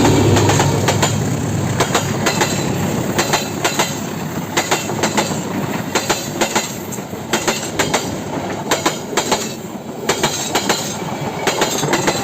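Train rolling past close by, its wheels clacking over rail joints in quick pairs over a steady rumble.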